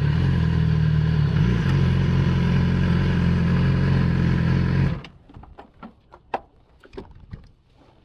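Yamaha R6 motorcycle's inline-four engine running steadily, cutting off abruptly about five seconds in; after that only faint scattered clicks.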